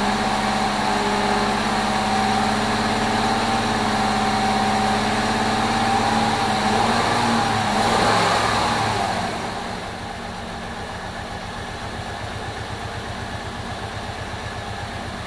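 Chrysler 3.7-litre V6 in a 2002 Jeep Liberty running just after its first start following an engine swap, held at raised speed at first. About nine seconds in it drops back to a lower, quieter idle with an even pulse.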